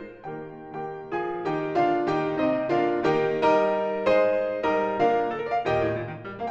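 Solo piano playing a classical piece: a steady run of struck notes and chords, each ringing and fading before the next.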